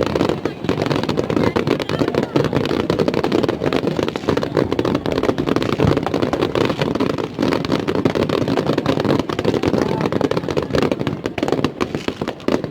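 Fireworks going off in quick succession, a dense, continuous crackle of bangs.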